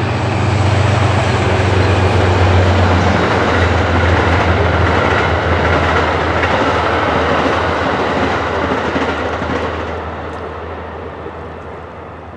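Locomotive-hauled passenger train passing: a low steady drone over the rolling clatter of the cars, fading away over the last couple of seconds as the train moves off.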